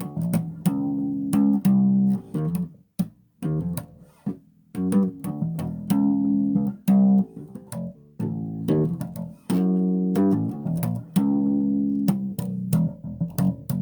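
Bass guitar played solo: plucked notes in short phrases with sharp attacks, some notes held, and brief pauses between phrases.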